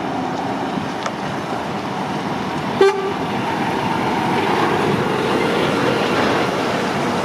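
Steady motorway traffic noise, with one short vehicle horn toot about three seconds in.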